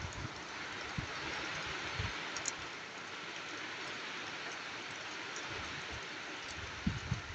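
Steady rain falling, an even hiss, with a few short low thumps about one and two seconds in and a cluster near the end.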